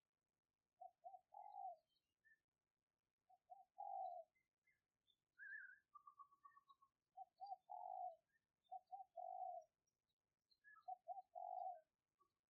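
Spotted dove cooing faintly: a decoy bird's song of two short coos and a longer rolling coo, repeated five times every two to three seconds. Small birds chirp faintly in between.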